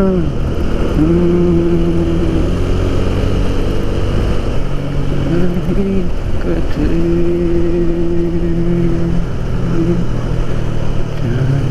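Motorcycle engine running on the road, holding a steady note that dips and rises again a few times as the throttle is eased and reopened, over a constant low rumble of wind and road noise.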